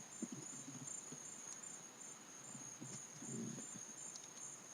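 Steady chorus of night-singing insects, a constant high pulsing trill, with faint low rustling underneath.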